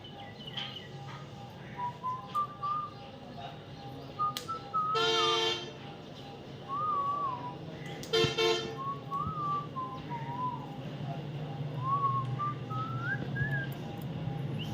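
A whistled tune of short notes that glide up and down, broken by two loud, harsh, horn-like toots about three seconds apart, over a steady low hum.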